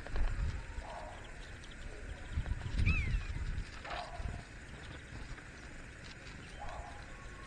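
Great spotted woodpecker tapping and knocking at a bird feeder in irregular strokes, over low rumbling thuds, with a short bird chirp about three seconds in.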